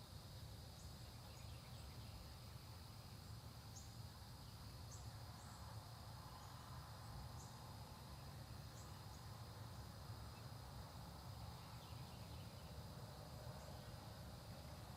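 Faint country dawn ambience: insects trilling steadily in one continuous high note, with scattered brief high chips from birds over a low rumble.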